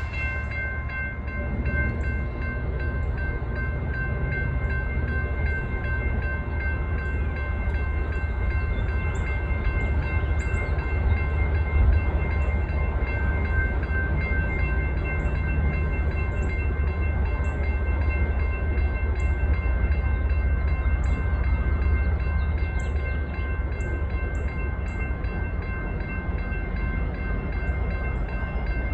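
Slow-moving empty coal train passing close by, with a deep steady rumble of diesel locomotives and rolling cars. Over it runs a steady high squeal, typical of wheel flanges screeching on the rails.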